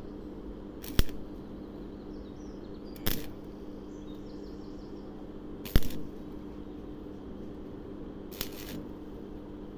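Four sharp, separate knocks or cracks over a steady electrical hum; the first and third are the loudest.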